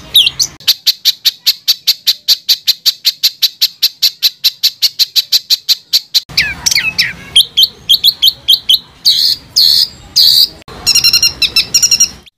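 Songbird masteran recording of rapid-fire 'tembakan' song: a long string of sharp repeated notes, about ten a second, for some five seconds, then varied sliding whistles and a few louder separate notes, ending in a fast trill.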